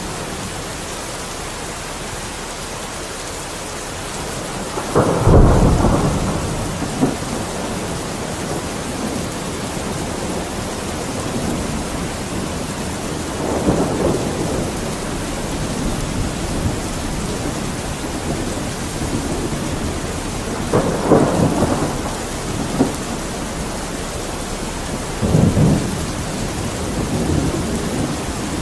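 Steady rain with thunder rumbling four times, the loudest roll about five seconds in.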